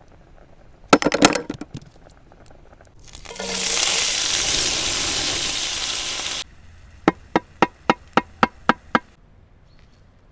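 Cooking sounds in three parts. First a short burst of sharp crackling clicks. Then food sizzling loudly in a hot pan, which cuts off suddenly. Then eight evenly spaced chopping strokes, about four a second.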